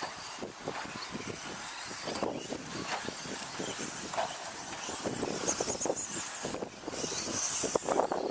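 Radio-controlled 2WD stadium trucks racing: a running mix of whirring drivetrains and scrabbling tyres, broken by many sharp clacks of the trucks landing and knocking about, with bursts of higher hiss about five and seven seconds in.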